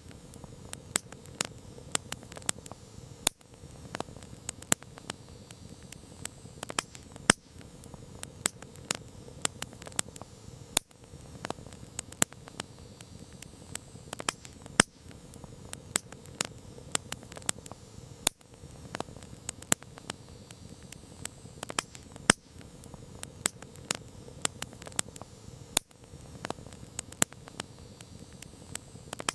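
Campfire crackling: frequent irregular pops and snaps of burning wood over a steady low hiss of flames.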